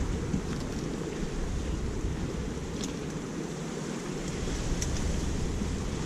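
Strong wind buffeting the microphone: a steady low rumble that eases slightly midway and picks up again.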